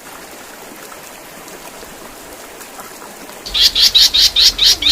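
Recorded songbird song used as a tutoring track for cage birds. A faint hiss comes first; about three and a half seconds in, a fast, dense run of loud high chirps starts, about five a second.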